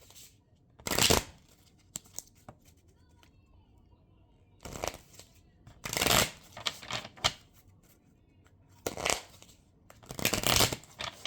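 A deck of cards being shuffled in five short bursts, about a second or two apart, with quiet in between.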